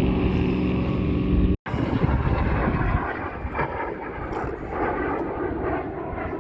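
Propeller airplane engine drone, steady in pitch, cut off abruptly about a second and a half in. It is followed at once by rougher aircraft engine noise that falls to a lower level about three seconds in.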